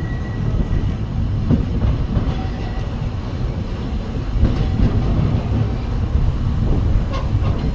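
Narrow-gauge steam train rolling along its track: a steady low rumble of wheels and running gear, with a few faint clicks.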